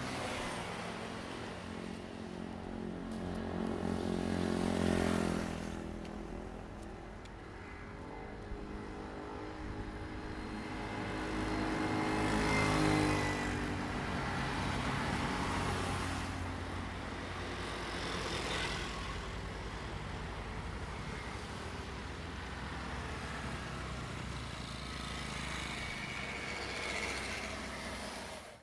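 Diesel train running past on the line, its engine note swelling and falling in pitch twice, loudest about five and about thirteen seconds in, with a steady engine drone between.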